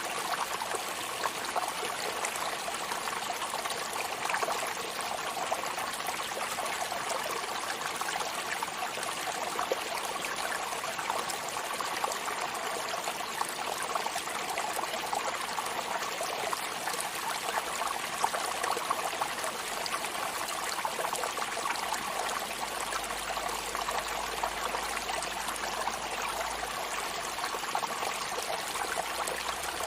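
Sea surf: a steady, even wash and fizz of water, without distinct breaking waves rising and falling.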